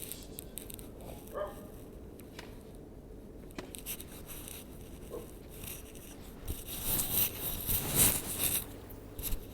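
Husky puppies: one short whimper about 1.4 seconds in, then a louder stretch of scuffling, scraping and rustling later on, as of puppies playing or chewing.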